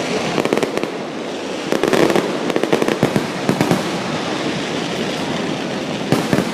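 Fireworks going off in a dense display: continuous crackling with many sharp bangs in quick succession, coming in clusters about half a second in, from about two seconds in, and again near the end.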